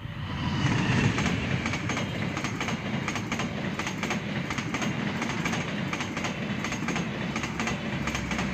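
Diesel-hauled passenger train passing close by at speed. It is loudest about a second in as the locomotive goes by, then the carriages' wheels rumble and clatter steadily over the rails.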